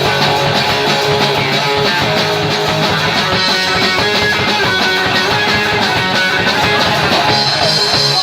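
Punk rock band playing live: distorted electric guitars strumming over bass and drums, loud and unbroken.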